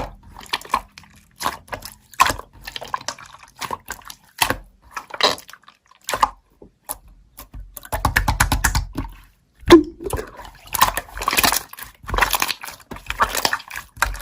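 Slime being squeezed and pressed by hand, making irregular wet clicks and squelches, with a quick run of clicks about eight seconds in.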